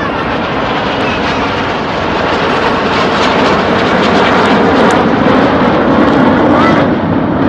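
Airplane flying past at an airshow: steady engine noise that builds to its loudest about five to seven seconds in, then eases a little.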